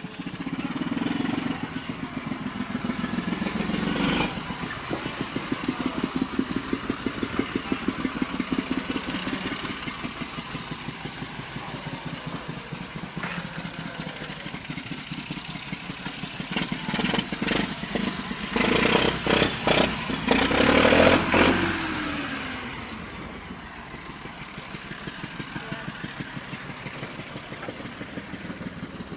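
Massey Ferguson 385 tractor's diesel engine running after a rebuild, idling with an even chugging beat. About two-thirds of the way through it is revved up for a few seconds, then the revs fall back to idle.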